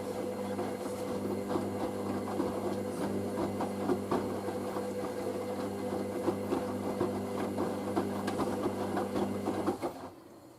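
Hoover SIX AAA160 washing machine at the start of its first rinse: a steady electric hum with water splashing and crackling in the drum. It stops abruptly about ten seconds in.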